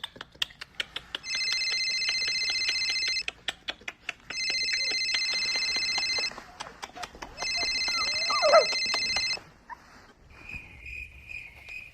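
A telephone ringer trilling three times, each ring about two seconds long with about a second between, over rapid clicking. A brief gliding call sounds during the third ring, and a steady high beep follows near the end.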